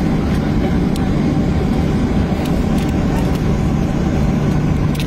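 Steady engine drone heard inside a vehicle's cabin: a loud, even low rumble with a constant hum and a few faint ticks.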